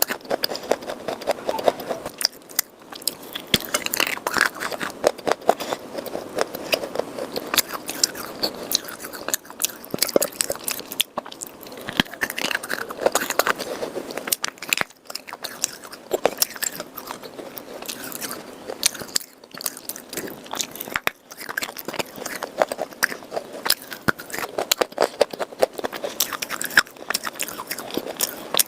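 Pieces of hard, dry red khawa clay and chalk being bitten and chewed: a dense run of crisp, irregular crunches and crackles with short pauses now and then.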